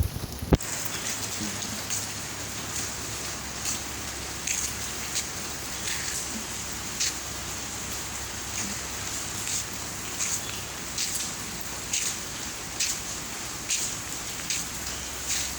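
Steady heavy rain, with irregular louder drops and splashes standing out every second or so over the hiss. A single sharp knock sounds about half a second in.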